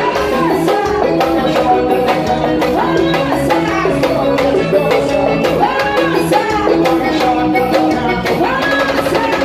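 Live band music with a steady beat and a lead melody line, without recognisable words.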